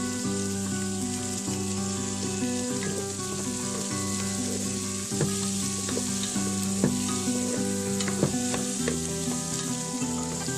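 Food frying in a pan with a steady sizzle, stirred with a utensil that clicks against the pan now and then. Background music with long held notes plays underneath.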